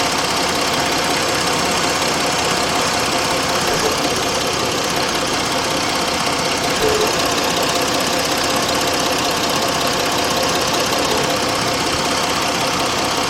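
2006 Jeep Grand Cherokee's 3.7-litre V6 idling steadily.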